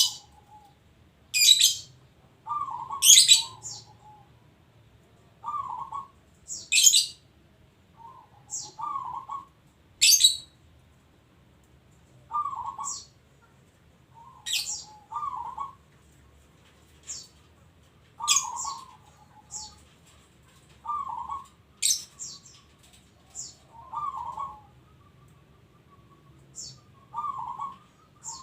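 Zebra dove (perkutut) cooing, a short rolling phrase repeated about every two to three seconds. Sharp, high chirps come in between the phrases and are at times the loudest sound.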